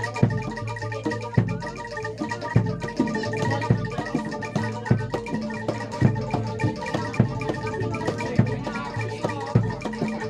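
Live Javanese gamelan music for a kuda lumping dance: metallophones ring sustained notes over a steady beat of low hand-drum strokes, with rattling percussion.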